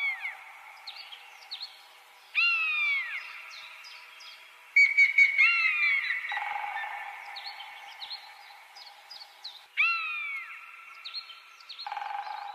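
Birds calling: a few loud, sharp falling calls a few seconds apart over quick, repeated high chirps and a steady high-pitched drone.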